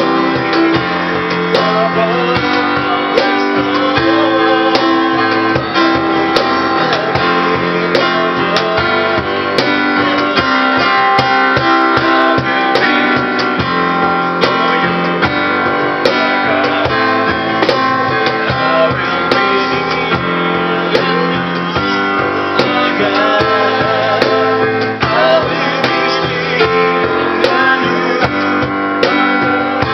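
Live acoustic guitar strumming, with regular sharp percussive beats that fit a cajón.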